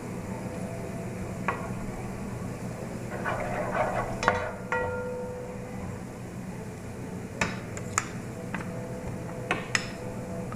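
Spatula stirring and scraping shredded chicken and onion in a pan, with a run of sharp clinks of the utensil against the pan, one about four and a half seconds in ringing on briefly. A steady low hum lies under it all.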